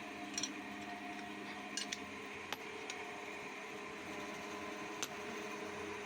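A steady machine hum with several faint sharp clicks: one about half a second in, a close pair near two seconds, one at two and a half seconds and one at five seconds.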